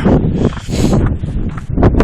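Footsteps crunching through deep snow at a steady walking pace, with wind rumbling on the microphone.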